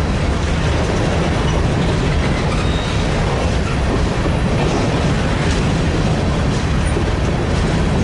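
Train rolling past close by, its wagons' wheels clattering steadily along the rails.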